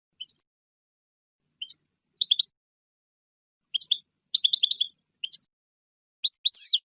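European goldfinch singing: short clusters of quick high chirps with brief silent gaps between them.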